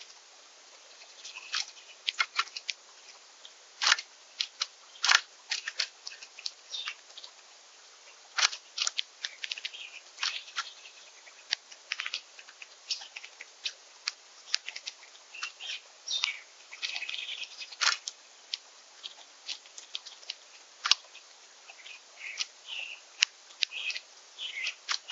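Irregular sharp clicks and taps of birds feeding at a seed feeder, with short high bird chirps now and then, more of them in the second half.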